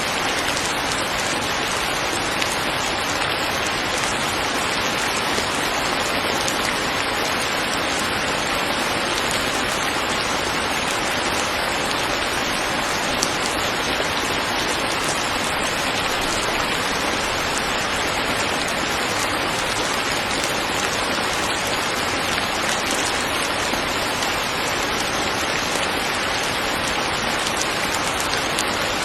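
Steady rain falling on a surface, a dense even hiss of drops with a few louder drips standing out now and then.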